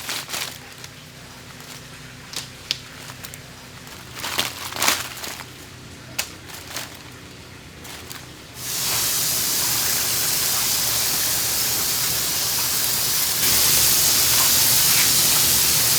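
A few light clicks and knocks, then about halfway a loud steady hiss starts suddenly and grows louder again near the end, as oysters cook over the fire.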